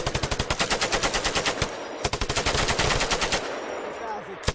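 M240 belt-fed 7.62 mm machine gun firing rapid bursts: a burst of about a second and a half, a short pause, a second burst of over a second, then a third burst starting near the end.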